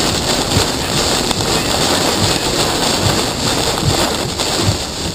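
Severe thunderstorm wind of about 80 mph blowing hard and steadily over the microphone, with rain, and the gusts buffeting it in repeated low thumps.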